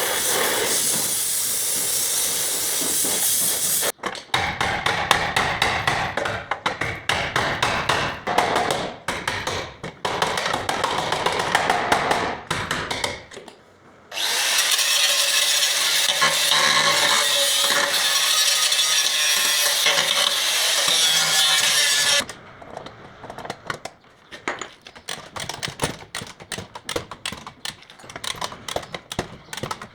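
Body-shop metalwork on a car: stretches of steady power-tool noise at the start and again in the middle, alternating with stretches of rapid, irregular clicking and crackling.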